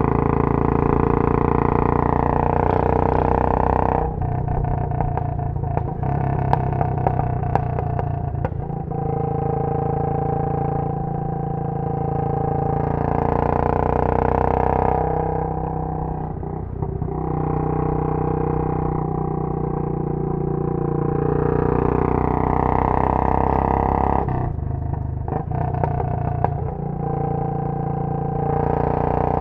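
Royal Enfield Bullet 500's single-cylinder engine through a Punjab long-bottle silencer, heard on board while riding. It pulls under throttle, then falls away twice as the throttle closes, with sharp crackles from the exhaust on each let-off.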